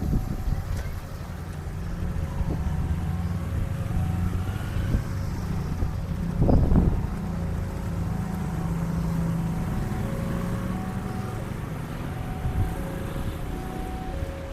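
Train engine running steadily with a low hum, while a two-tone electronic warning signal beeps over and over. Wind buffets the microphone loudly at the start and again about six seconds in.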